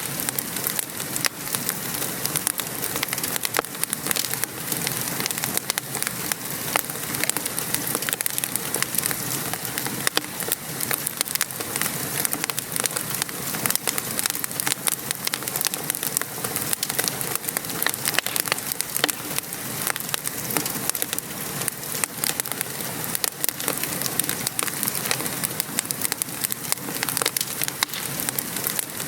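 Steady rain with a wood fire crackling, a dense patter of small pops and ticks over an even hiss.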